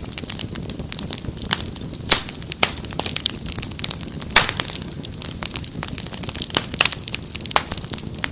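Wood fire crackling, with irregular sharp pops and snaps over a low steady rumble of flame; the loudest pops come about two seconds and about four and a half seconds in.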